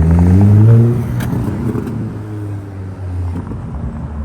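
A car engine accelerating, its pitch rising to the loudest point about a second in, then dropping away into a lower, steadier engine hum.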